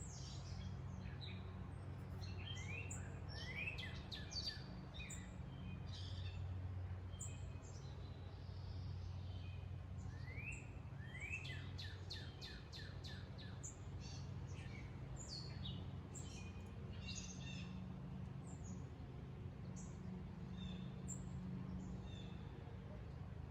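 Songbirds chirping and singing, many short calls and quick rising notes overlapping, busiest about three seconds in and again around ten to thirteen seconds. A faint steady low hum runs underneath.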